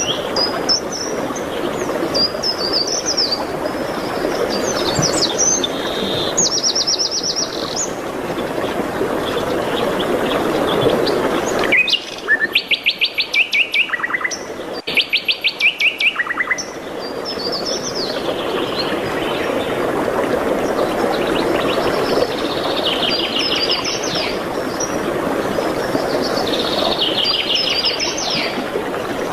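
Songbirds singing over a steady background noise, with short chirps and trills throughout. Around the middle come two loud, fast trills.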